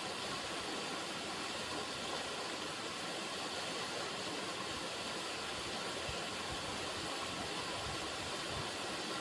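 River water running, a steady rushing hiss with no pauses.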